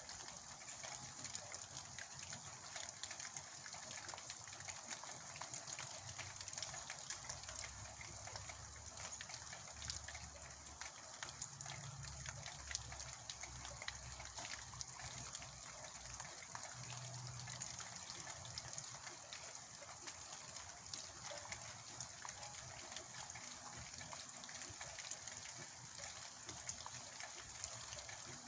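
Steady rain falling, a dense hiss with many separate drops ticking. A low rumble comes and goes in the middle.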